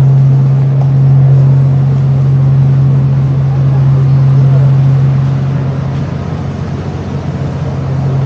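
Loud, steady low hum of a ship's onboard machinery on deck, easing off a little about five seconds in.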